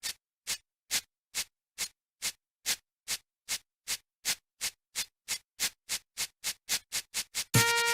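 Steam locomotive chuffing, short hissy puffs coming faster and faster as the engine picks up speed, from about two a second to about four a second. Music starts near the end.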